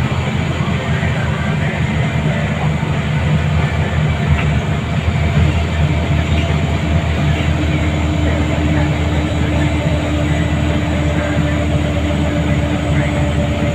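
Inside the cabin of a Scania L94UA bus under way: steady drone of its rear-mounted diesel engine mixed with road and body noise. A faint whine comes in about halfway through.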